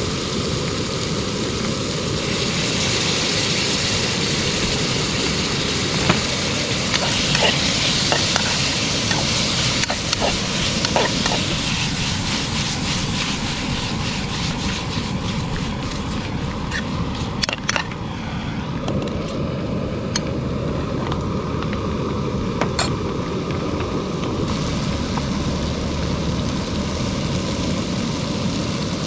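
Food frying and sizzling in a pan, with a utensil scraping and clicking against it as it is stirred.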